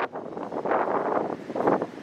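Train noise at a station platform with gusty wind buffeting the microphone, coming in irregular surges.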